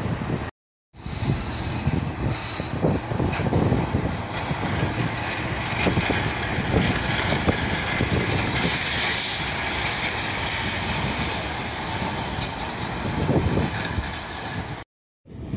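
Coupled Pacer four-wheeled diesel railbuses passing close, wheels clattering over the rail joints with high wheel squeal, loudest in a squeal that falls in pitch about nine seconds in. The sound briefly drops out to silence near the start and near the end.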